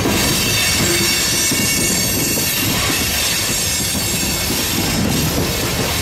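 Open hopper cars of a freight train rolling past close by: a steady heavy rumble of steel wheels on the rails, with a high, steady squeal from the wheels over the top.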